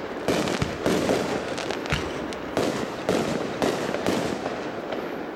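Fireworks shells bursting in quick succession, about eight reports at roughly two a second, each trailing off in a fading tail.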